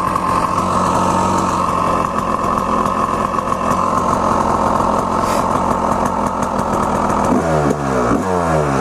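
Two-stroke dirt bike engine running at a steady speed, then, from about seven and a half seconds in, revving up in a series of rising sweeps as the bike accelerates.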